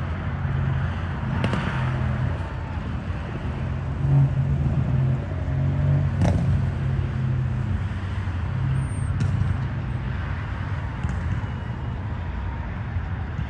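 Road traffic: vehicle engines running with a steady low hum, with two sharp knocks, one about a second and a half in and one about six seconds in.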